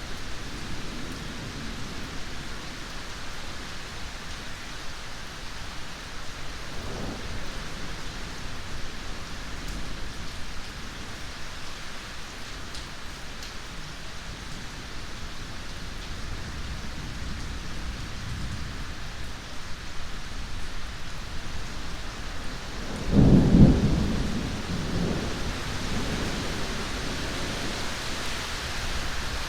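Steady heavy rain hissing, with faint rolls of distant thunder and one loud clap of thunder about three-quarters of the way through that rumbles away over a few seconds.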